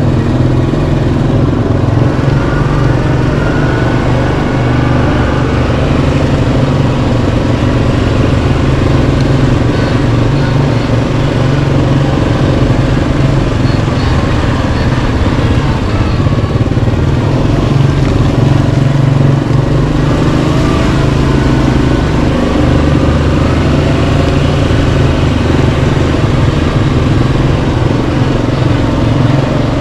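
Yamaha Kodiak 700 ATV's single-cylinder four-stroke engine running steadily while the ATV rides along, holding a fairly even pitch with small rises and falls in load.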